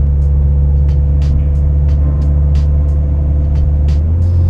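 Heard from inside the cabin, a 2018 Mazda 6 engine drones steadily while driving, breathing through a Corksport short ram intake and a Corksport muffler with the resonator deleted. Its note changes about four seconds in.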